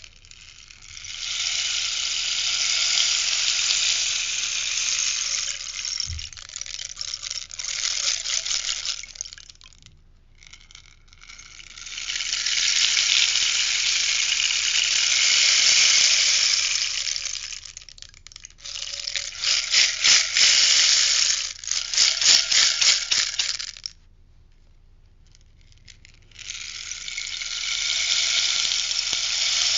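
A rainstick being tipped, its pellets cascading in a steady hissing patter. There are four pours with short pauses between them. In the third pour the rainstick is shaken in quick distinct rattling strokes.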